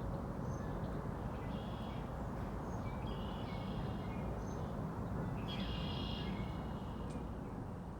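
Small songbirds singing short, repeated phrases with brief high chips, about every second or two, over a steady low rushing background noise.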